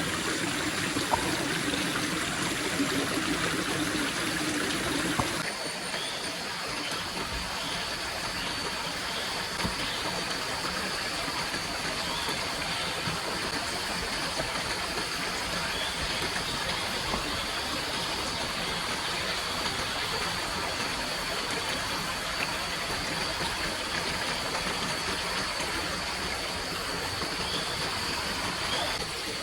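Steady rushing water, like a jungle stream. About five seconds in the sound changes abruptly, and from then on a faint high steady tone and faint short chirps run beneath the water.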